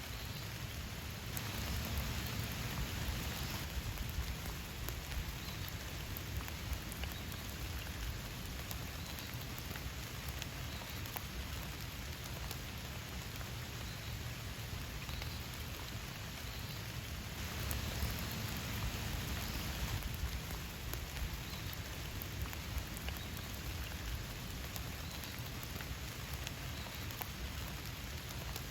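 Steady rain falling, with many individual drops tapping. It swells a little about two seconds in and again about eighteen seconds in.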